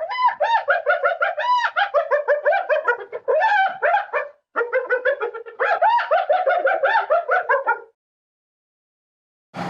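An animal giving a rapid string of short, high, pitched calls, several a second, in two long runs with a brief break between them. The calls stop about two seconds before a loud rushing sound starts at the very end.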